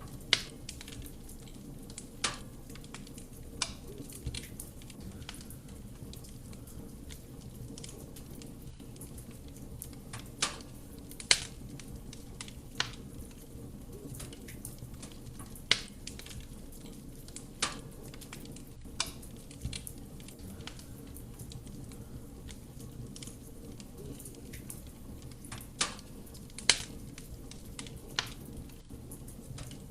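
Wood fire burning in a fireplace: a soft, steady roar of flame under sharp, irregular crackles and pops from the burning wood, one every few seconds.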